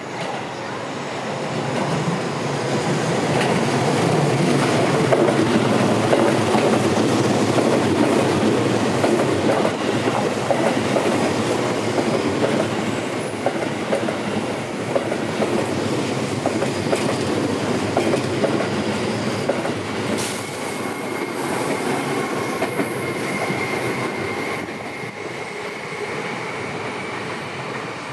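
Seibu Railway electric trains passing, with wheels rumbling and clattering over the rail joints. The sound builds to its loudest several seconds in, then slowly eases off, and a faint high steady whine or squeal comes in after about twenty seconds.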